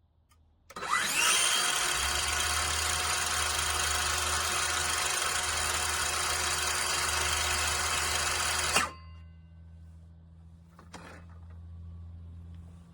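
DeWalt 20V MAX cordless circular saw spinning up and running steadily for about eight seconds, then stopping abruptly.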